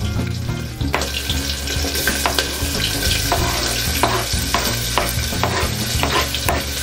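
Chopped onion, garlic, ginger and green chillies tipped into hot mustard oil in a pressure cooker, sizzling steadily, with frequent sharp crackles and taps as they are scraped in off a chopping board.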